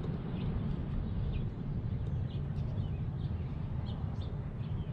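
Small birds chirping in the background, a string of short scattered chirps, over a steady low rumble of outdoor background noise.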